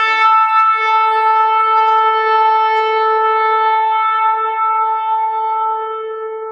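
Shofar (ram's horn) sounding one long sustained blast, rich in overtones. A lower, wavering note breaks off at the start and settles into a steady higher note. That note holds and then slowly fades near the end.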